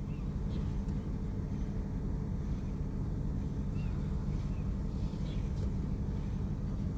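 Steady low rumble of an idling vehicle engine, with a few faint short high chirps over it.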